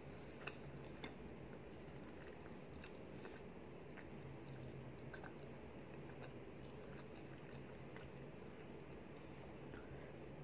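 Faint chewing and soft wet mouth clicks of a person eating curry and rice by hand, over a steady low hum.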